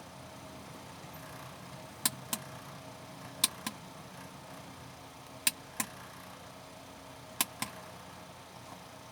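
Four quick pairs of sharp clicks, about two seconds apart, from handling the repaired extension cord's outlet, typical of plugs or test probes being pushed in and pulled out, over a faint steady hum.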